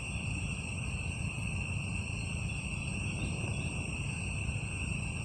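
Steady chorus of night insects, a continuous shrill drone that does not change, over a low steady rumble.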